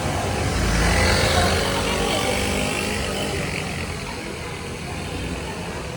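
Street noise with a motor vehicle passing close by; its low rumble swells about a second in, then fades.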